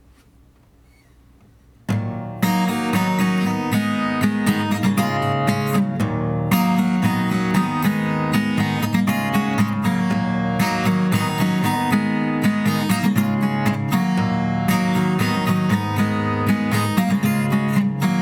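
Crafter ML-Rose acoustic guitar strummed in a steady rhythm, starting about two seconds in after near quiet: the instrumental introduction of a song.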